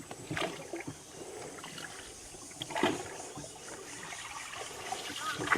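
Water trickling and lapping around a small boat being paddled, with a few soft splashes; the clearest comes about three seconds in.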